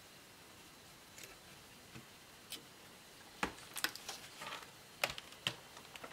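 Light clicks and taps of laptop parts and tools being handled during disassembly: a few faint ones at first, then a quicker run of sharper clicks from about halfway.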